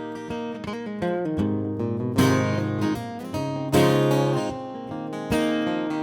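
Acoustic guitar playing a song's intro: strong strummed chords about every second and a half, with lighter picked notes ringing between them.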